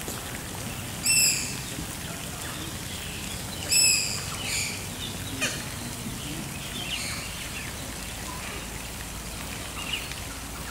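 Birds calling: two short, loud, high calls, one about a second in and one about four seconds in, then fainter scattered chirps, over a steady low background noise.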